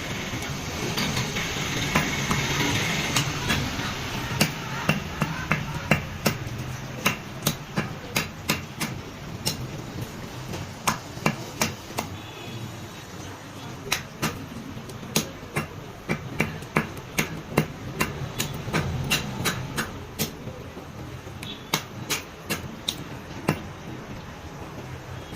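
Cleaver chopping a roasted country rooster on a chopping block: repeated sharp chops, roughly one or two a second, at an uneven pace.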